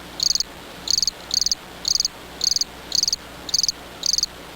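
Cricket chirping steadily, about two high-pitched chirps a second, each chirp a quick run of a few pulses.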